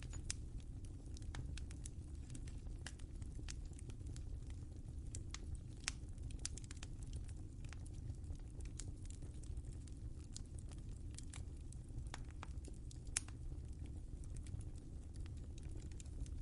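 Wood fire crackling in a fireplace: irregular sharp pops and snaps over a steady low rumble, with one louder pop about 13 seconds in.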